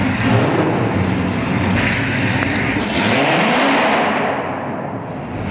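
Car engine running and revving as it accelerates, its pitch rising about three seconds in, over the noise of other running cars.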